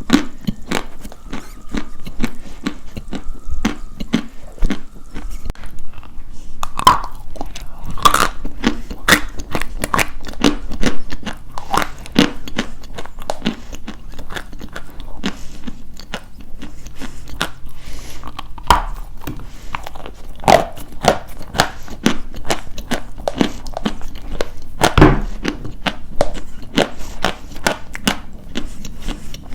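Dry white chalk being bitten and chewed close to the microphone: a dense run of dry crunches and crackles, with a few harder bites standing out.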